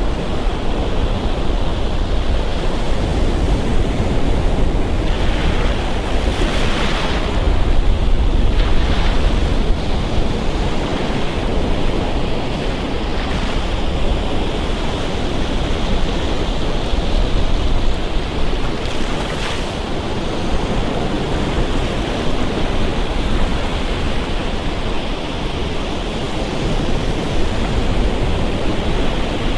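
Ocean surf: waves breaking and washing up a sandy beach in a continuous wash, with a low rumble of wind on the microphone. Breakers crash more sharply about six to seven seconds in, again around nine seconds, and once more near twenty seconds.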